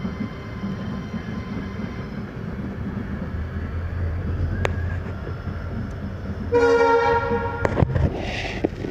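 Indian Railways ICF passenger coach running along the track with a steady rumble. Near the end the locomotive's horn sounds once, a single blast of a bit over a second.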